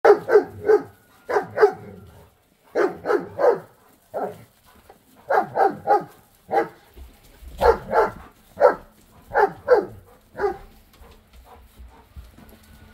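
Dogs barking in quick bursts of two or three short barks. About ten seconds in, the barking stops and only faint clicks are left.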